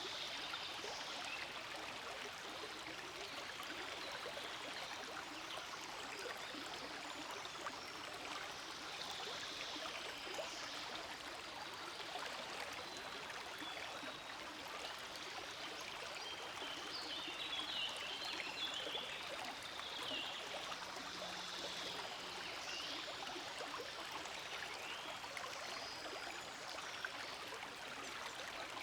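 Forest stream flowing steadily, an even, continuous rush and trickle of water.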